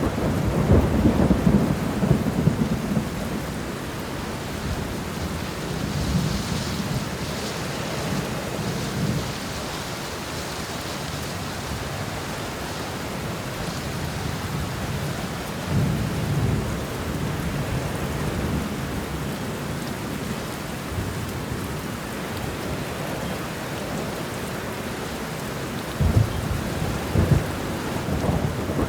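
Steady rain with rolling thunder: low rumbles swell in the first few seconds, again about halfway through and again near the end.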